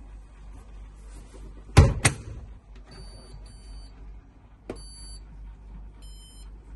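Washing machine door shut with two loud knocks, then its control panel giving about four short electronic beeps as the buttons are pressed, with a small click before one of them.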